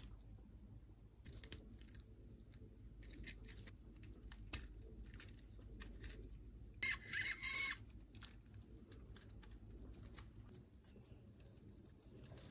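Faint, scattered clicks and light rustling of plastic toy parts and packaging being handled, with a short scratchy, squeaky burst about seven seconds in.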